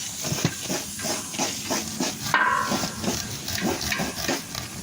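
Large knife cutting kernels off corn cobs: a quick run of short scraping and knocking strokes, several a second, over a steady hiss.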